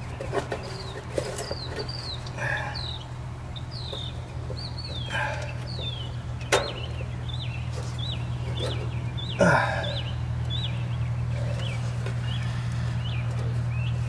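Birds chirping over and over in short high chirps, with a few louder, lower calls and a steady low hum beneath; a sharp click about six and a half seconds in.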